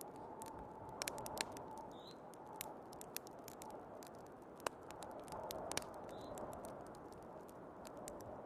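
Wood fire crackling, with scattered sharp pops, over the steady rush of snowstorm wind.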